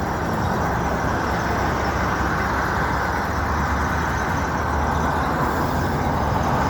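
Steady motor-vehicle noise: a constant low rumble with a noisy hiss above it, holding an even level throughout.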